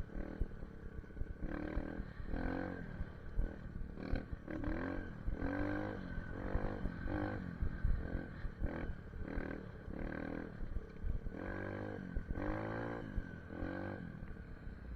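SSR 150 pit bike's single-cylinder four-stroke engine revving up and down repeatedly as it is ridden, its pitch climbing and dropping about once a second, with low wind rumble on the microphone.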